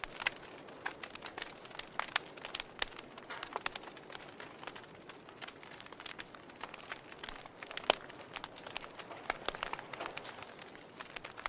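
Campfire crackling: wood burning with a dense, irregular run of small sharp pops and snaps, one louder pop about eight seconds in.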